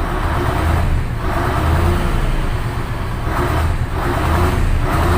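Freshly top-overhauled Mitsubishi Fuso 8DC10 V8 diesel engine running during break-in: a steady low rumble, with the revs swelling up and falling back about once a second.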